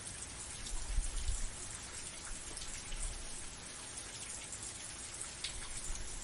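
Steady rain falling, with individual drops striking close by, and a brief low rumble about a second in.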